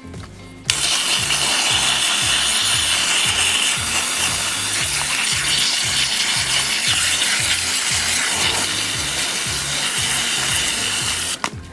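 Water jet from a garden hose spraying onto a fine stainless-steel mesh strainer to wash moss out of it: a steady hiss that starts about a second in and stops shortly before the end.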